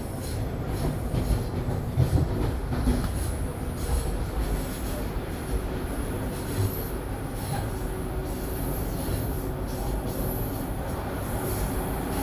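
Toronto subway train running between stations, heard from inside the car: a steady low rumble of wheels on rail, with a few louder bumps about two seconds in and a faint wheel squeal partway through.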